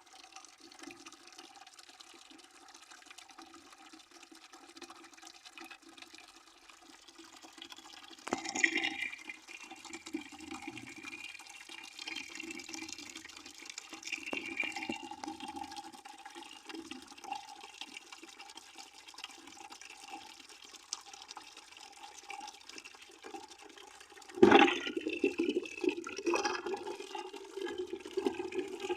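Water pouring and splashing into a bucket, a steady rushing wash with a hollow ring from the filling bucket. It gets louder suddenly about eight seconds in, and again, more sharply, near the end.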